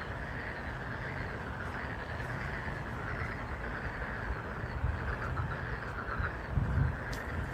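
A chorus of frogs calling continuously, with wind rumbling on the microphone and swelling in a gust near the end.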